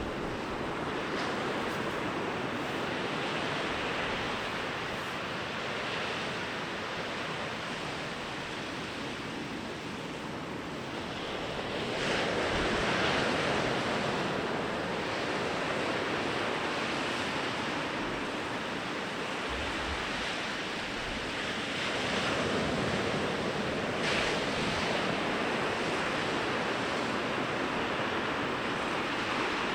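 Sea waves breaking and washing up a beach, a steady rush that swells louder as a bigger wave comes in about twelve seconds in and again about twenty-two seconds in.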